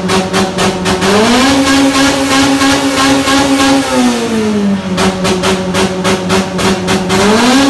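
A car engine held at high revs, its pitch climbing about a second in, holding steady, dropping back around the fourth to fifth second and climbing again near the end.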